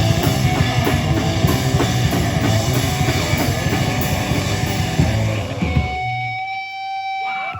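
Live heavy rock band playing loud, with distorted electric guitars and a drum kit. About six seconds in, the drums and bass stop and a single guitar tone rings on alone, then cuts off as the song ends.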